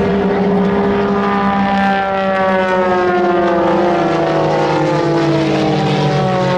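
Propeller airplane flying past, its engine note falling slowly and steadily in pitch as it goes by.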